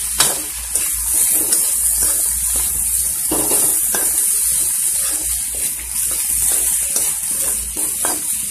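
Chopped tomatoes, green peas and chillies sizzling in hot oil in a pan while a spoon stirs them, with a few brief scrapes and knocks of the spoon against the pan.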